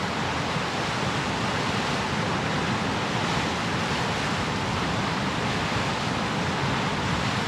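Steady rush of water: a swollen creek pouring through a breached sand berm into the ocean, mixed with the sound of surf.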